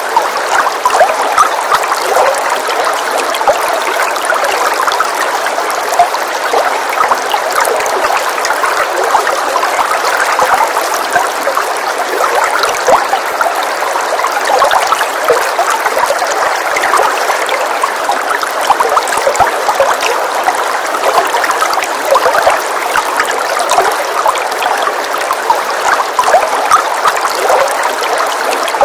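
Steady rain: an even, continuous patter of many small drops, with no gaps.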